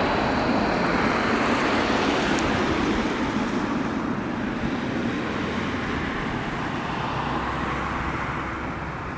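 Jet engine noise of a Boeing 737-8200 MAX's CFM LEAP-1B turbofans as the airliner arrives, a steady rush that fades as it moves away.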